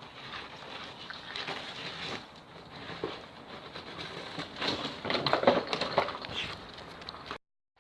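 Dogs rummaging and sniffing through enrichment items: irregular rustling, tapping and crunching, busiest about five to six seconds in, then cut off suddenly near the end.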